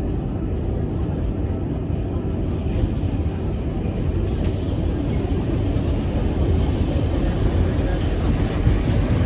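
Train running with a steady low rumble. About four seconds in, thin high wheel squeal joins it.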